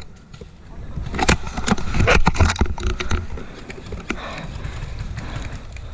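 Wind rumbling on the microphone, with a sharp click about a second in and a cluster of knocks and rustles a second later.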